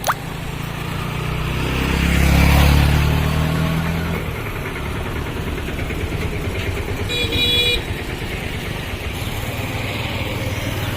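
Road traffic: a motor vehicle's engine rumble swells as it passes, loudest about two to three seconds in. A vehicle horn gives one short honk about seven seconds in.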